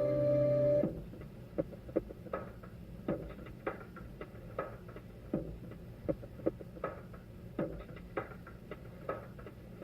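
A sustained ambient music chord cuts off about a second in. It is followed by sparse, irregular light ticks and clicks, roughly two a second, some with a brief ringing tone, over a low steady hum.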